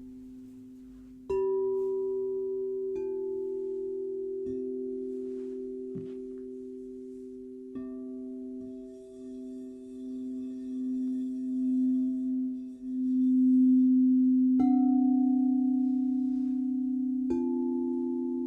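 Crystal singing bowls struck one after another, about six times, each steady tone ringing on and layering over the others at different pitches. In the middle, the lowest tone swells and wavers for a few seconds before settling.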